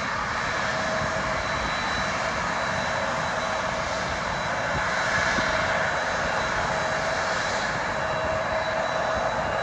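Airliner's engines running, a steady noise with a thin high whine held at one pitch.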